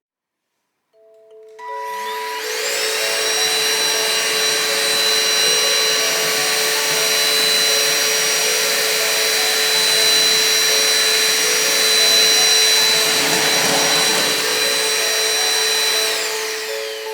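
Ambiano 3-in-1 cordless stick vacuum switched on: its motor whine rises in pitch about a second and a half in, runs steadily, then winds down as it is switched off near the end.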